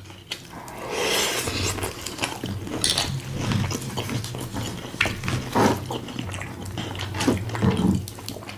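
A person chewing and crunching a loaded taco close to the microphone, with irregular bites and wet mouth noises over a faint steady low hum.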